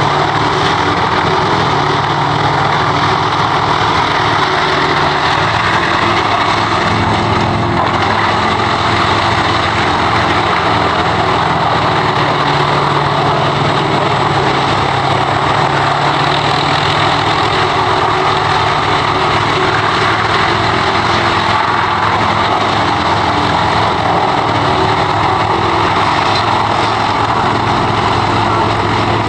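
Wood chipper's engine running steadily at a constant speed, with a continuous rushing noise over the engine note.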